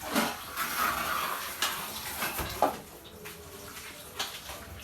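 Scraping and clinking of metal tools and vessels in wet cement mortar, with a few sharp knocks.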